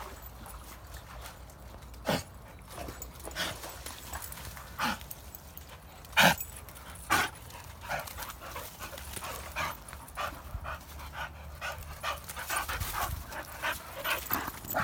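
Dog panting, with a run of short sharp sounds, the loudest about two, six and seven seconds in.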